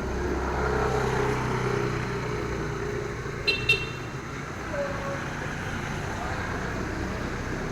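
Steady low rumble of motor traffic, with two short high-pitched beeps in quick succession about three and a half seconds in.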